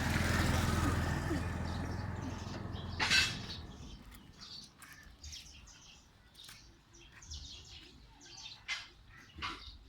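A steady machine noise with a low hum fades out over the first three seconds, ending in a short loud burst; then small birds chirp over quiet background.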